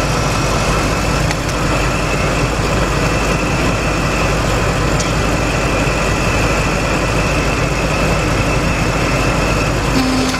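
Ford 5.4-litre V8 of a 2004 Lincoln Navigator idling steadily while it has a cylinder misfire, with a faint high whine over the engine. A steady low hum starts near the end.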